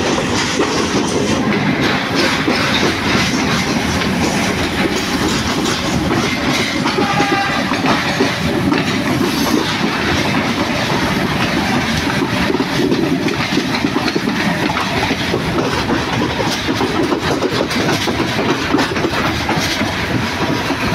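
Passenger train carriage running along the track, heard from its open doorway: a steady, loud clattering rumble of wheels on the rails.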